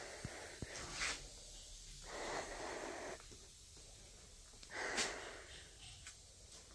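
A person breathing close to the microphone: three soft breaths about two and a half seconds apart, with a couple of faint clicks.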